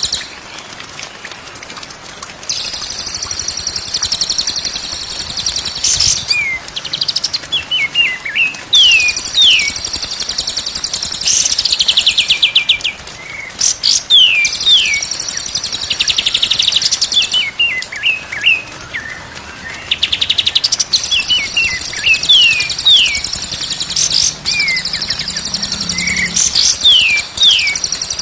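Songbirds singing: long stretches of rapid, high, buzzy chatter, broken by series of short, sharp falling whistles.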